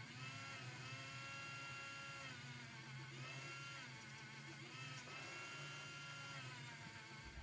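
A small electric motor whining in several short spells, its pitch rising as it speeds up, holding, then falling as it slows, over a steady low hum.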